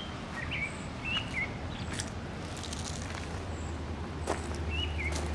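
A small bird chirping in short calls several times over a steady low hum, with a few brief crunching clicks like footsteps on gravel.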